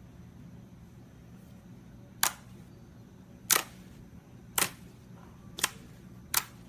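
Five sharp pops from slime being handled, spaced about a second apart, over a faint low hum.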